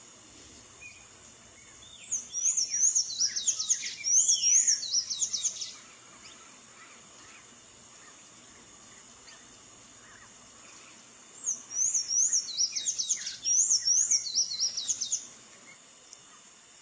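Sayaca tanager (sanhaçu-cinzento) singing two phrases of about four seconds each, fast strings of high, squeaky, rising-and-falling notes, the first starting about two seconds in and the second near two-thirds through. A steady high hiss runs underneath.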